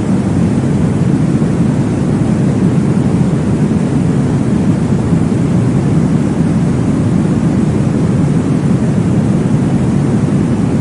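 Steady, deep whooshing noise of a baby-sleep noise track, even in loudness, with most of its weight low and little treble; no separate heartbeat thumps stand out.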